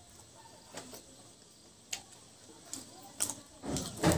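Close-up mouth sounds of eating rice and mutton curry with bamboo shoots by hand: sharp wet smacks and lip clicks, one every half second to a second, with a louder, longer burst of chewing near the end.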